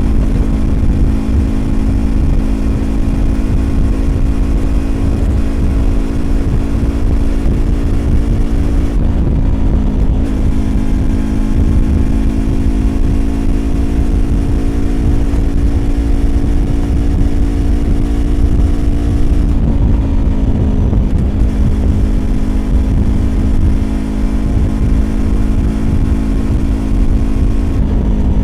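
A 2020 Yamaha YZF-R25's 250 cc parallel-twin engine, breathing through a Prunus aftermarket exhaust, running under way at speed. The engine note climbs slowly, dips briefly three times as the rider changes gear, then climbs again.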